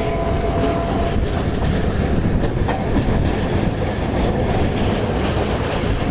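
EMU suburban electric train running along the track: a steady rumble of wheels on rails, with a faint whine that fades out about a second in.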